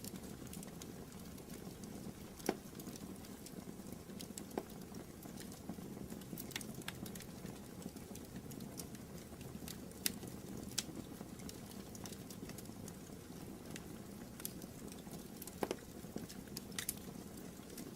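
Wood fire burning in a fireplace: a steady low rustle of flames with irregular sharp crackles and pops scattered throughout.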